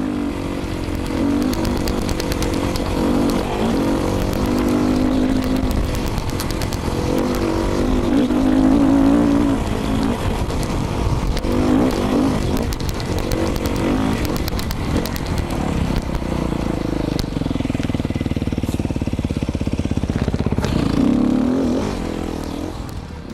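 2019 Beta 500 RRS dirt bike's single-cylinder four-stroke engine through an FMF exhaust, revving up and down under riding load. Rapid clicking runs through it from a loose helmet microphone slapping about.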